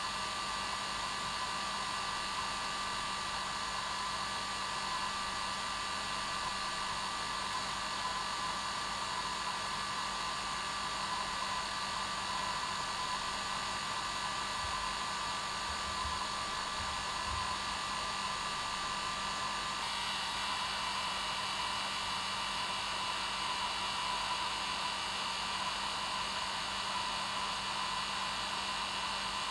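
Hair dryer running steadily: a continuous blowing rush with a steady motor hum under it, its higher tones shifting slightly about two-thirds of the way through.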